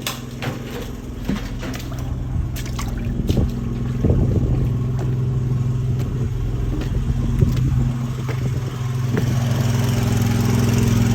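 Sewer water jetter's engine running steadily, with a few knocks and clatters in the first few seconds. It gets louder about four seconds in and again near the end as the jetting pressure is turned up.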